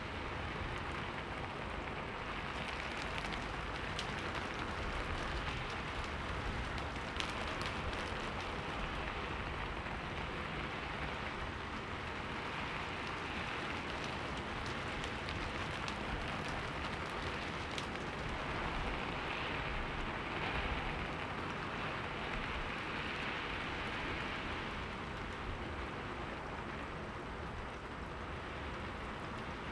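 Steady rain falling on a window, an even hiss with scattered sharper drop ticks.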